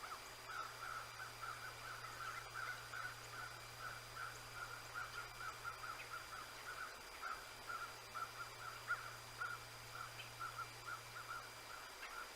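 A flock of Canada geese honking in a steady, rapid series of calls, about two or three a second, heard faintly over a camera microphone with a constant low electrical hum.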